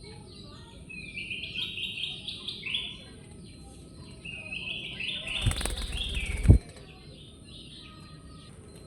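A kutilang sutra bulbul singing two quick rolling phrases of rapid, repeated chirping notes. Thumps near the end of the second phrase, the loudest at its close.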